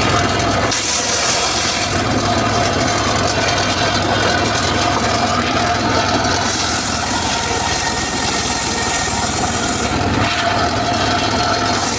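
Homemade circular saw running with its blade cutting through mahogany wood: a steady whine under a loud cutting hiss. The hiss eases briefly at the start and again near the end, as the blade runs between cuts.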